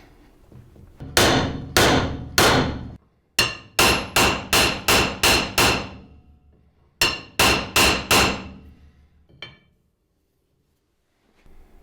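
Hammer striking metal in three runs of blows, each blow with a short metallic ring: three blows, then about eight quicker ones, then four, then a lighter tap. It is typical of hammering parts apart or straightening them on a vise restoration.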